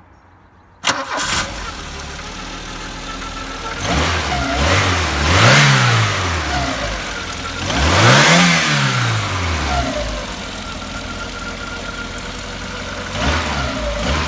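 1986 Volkswagen Passat B2 engine starting about a second in and settling to an idle, then revved up and let fall back twice, with a short blip of the throttle near the end.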